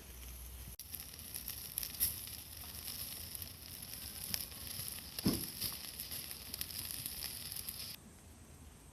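Food sizzling over a charcoal fire, a steady hiss with scattered crackles and one sharper pop. It cuts off abruptly near the end.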